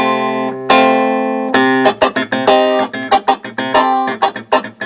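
Vintage Hohner electric keyboard being played through its amplified output: held, restruck chords, then a quick run of short, sharply plucked-sounding notes.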